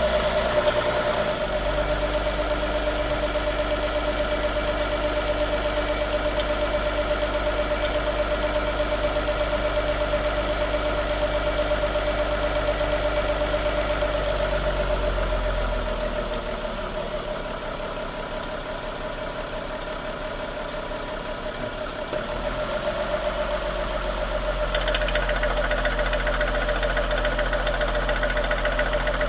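2016 Lexus GS350's 3.5-litre V6 idling steadily, its tone changing as the transmission goes into reverse about a second in and back into park about 22 s in. About 25 s in a strange higher-pitched noise starts over the idle and keeps going, which the owner puts down to the vacuum pump.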